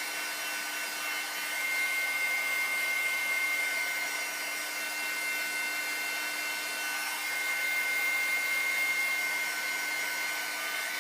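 Handheld hair dryer running: a steady rush of air with a steady whine over it, getting slightly louder about two seconds in as it is waved over wet nail polish to dry it.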